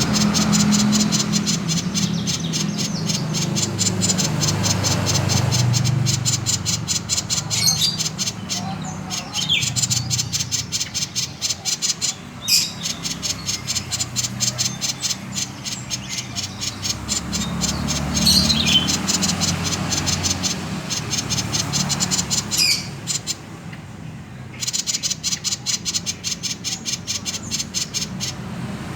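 Common iora (sirtu/cipoh) giving its 'konslet' call: long runs of a fast, buzzy rattle of rapidly repeated clicks, with a few short, sharp whistled notes between the runs and a brief pause in the rattle near the end.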